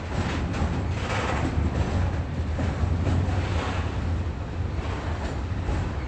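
Train running, with a steady low rumble under continuous rail and machinery noise.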